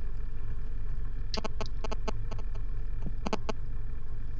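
Motorcycle engine idling with a steady low pulse, with a few sharp clicks and knocks, a cluster about a second and a half in and another near three and a half seconds.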